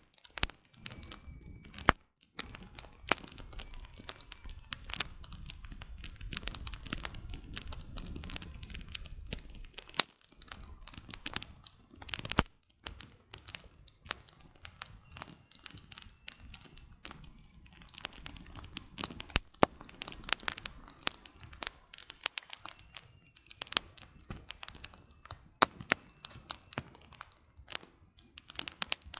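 Wood campfire burning, firewood crackling and popping in many sharp, irregular snaps over a low steady rush of flame.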